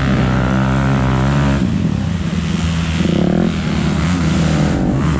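Off-road vehicle engine running under way, its steady note changing about a second and a half in.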